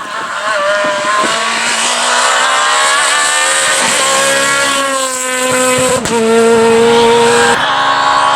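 Renault Clio R3 rally car's engine revving hard through the gears: the pitch climbs, then drops at gear changes about four and six seconds in, with a sharp crack at the second shift.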